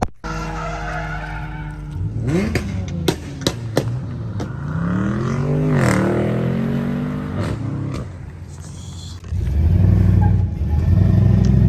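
Car engine revving up and down several times, with a few sharp pops in between. About nine seconds in, a deeper, louder engine rumble starts.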